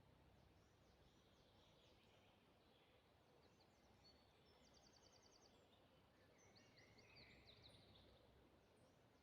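Faint forest ambience: distant birds chirping, with a short rapid trill about halfway through, over a faint low rumble.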